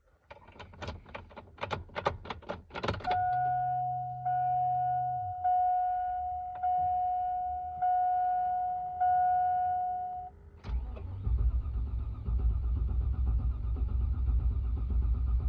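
2002 GMC Yukon: a quick run of clicks, then a warning chime pulsing six times, then from about eleven seconds in the V8 turning over steadily on the starter, a truck with a crank-but-no-start fault.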